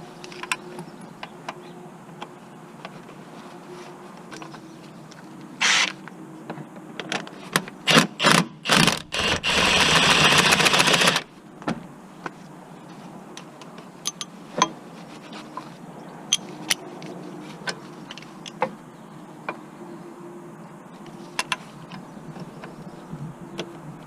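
Tools working on a car: scattered clicks and knocks, a few short bursts, and one loud rapid rattling burst of about two seconds about ten seconds in, typical of a cordless impact gun spinning a bolt.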